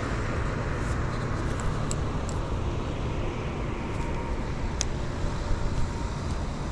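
Steady wind rush and road noise on the move, with a low rumble of air buffeting the microphone and traffic noise in the background. There are a few faint sharp clicks about two seconds in and again near five seconds.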